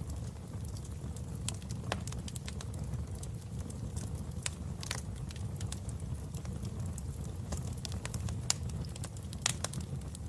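Wood fire burning in a fireplace: a steady low rumble with irregular sharp crackles and pops, a couple of them louder, about halfway through and near the end.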